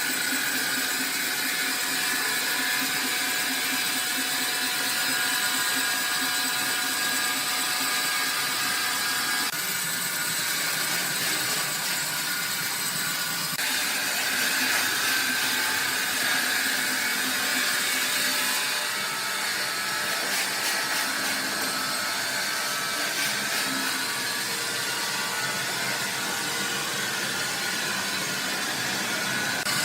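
Sawmill machinery running: a steady mechanical whir and whine with a hiss, shifting in tone abruptly a few times.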